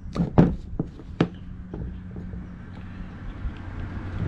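Caliper slide pins being pulled out of the caliper mount: a few sharp metal clicks and knocks in the first second and a half, then a steady low hum.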